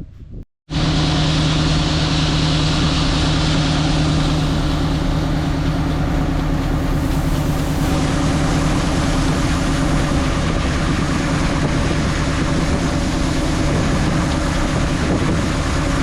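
Large diesel farm machinery engine running steadily under load, a loud, even mechanical drone with a low steady hum, starting abruptly about half a second in.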